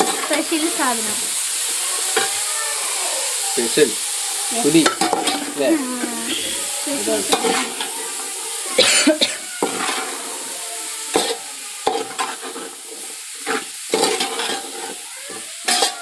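Chopped mushrooms sizzling in hot oil and spice masala in an aluminium pot, stirred with a metal spoon that scrapes and knocks against the pot. The sizzle is steady and eases a little toward the end.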